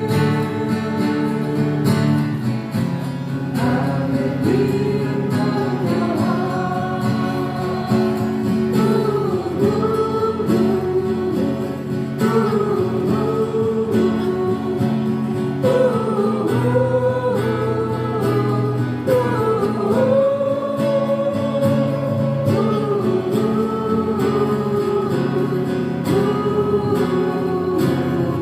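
A song performed live on acoustic guitars with a sung vocal melody carried over steady strummed chords.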